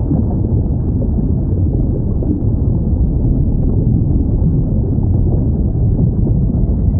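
Steady low underwater rumble with no distinct whale call standing out.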